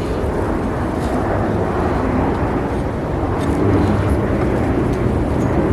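A steady low rumble of outdoor background noise, growing slightly louder over the few seconds.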